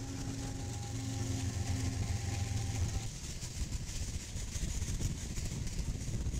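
Freight train passing: BNSF diesel locomotives running with a steady engine hum that cuts off suddenly about three seconds in, followed by the steady rolling noise of freight cars going by on the rails.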